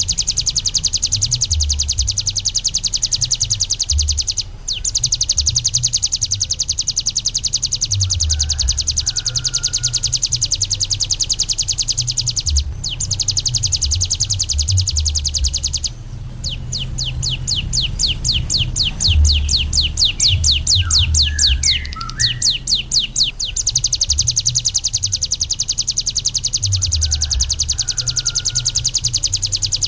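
Ciblek gunung singing a long, very fast, high-pitched drilling trill ('ngebren'), broken by a few short pauses. For several seconds in the middle it switches to a slower string of separate falling notes before the fast trill returns. A low rumble runs underneath.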